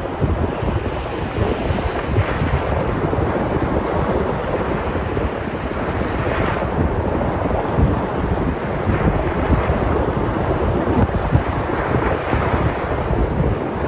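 Sea surf breaking and washing ashore in a steady rush, with wind buffeting the microphone. A few wave washes swell brighter, the clearest about six and a half seconds in.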